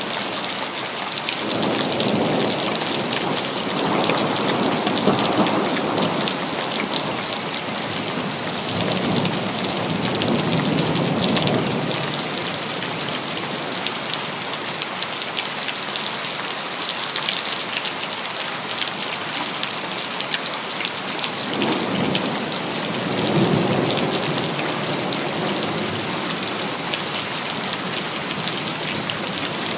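Steady heavy rain pattering on city surfaces, with rolls of thunder rumbling low three times: about two seconds in, around ten seconds, and again past twenty seconds.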